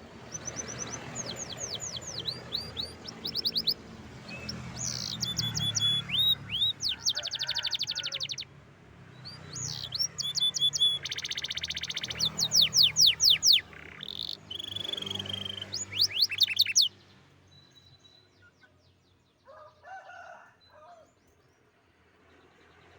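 Domestic canary singing a long song of rapid trills and rolls of quickly repeated notes. The song breaks off about three-quarters of the way through, leaving a few faint short sounds.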